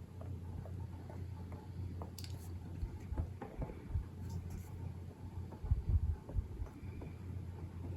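Soft, irregular taps and light rubbing from hands working craft supplies on paper, with a cluster of firmer taps about six seconds in, over a steady low hum.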